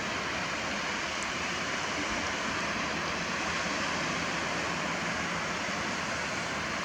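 A steady, even outdoor rush of background noise with no distinct events, of the kind heard on a beach by the water.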